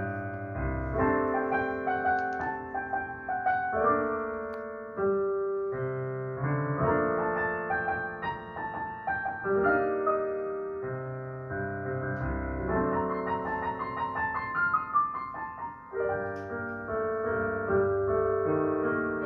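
Solo piano playing a melodic passage over chords, the notes struck and left to ring.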